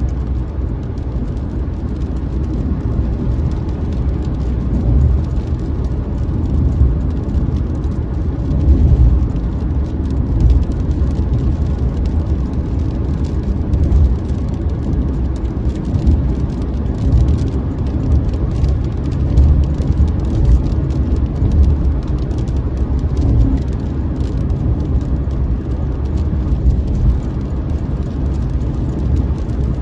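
A motor vehicle running and driving: a steady low rumble with small swells and no breaks.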